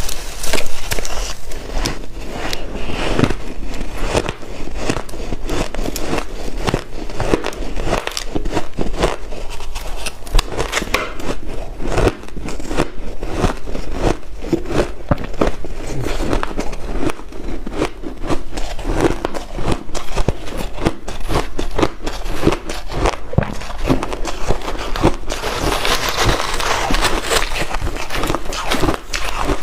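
A person biting and chewing white ice, a rapid, irregular run of crunches and crackles. About 25 seconds in, the crunching turns denser and hissier for a few seconds.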